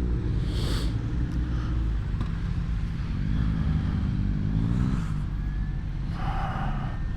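Suzuki GSX-S1000GT's inline-four engine running under way, rising in pitch about three seconds in as the bike accelerates, over a steady low rumble.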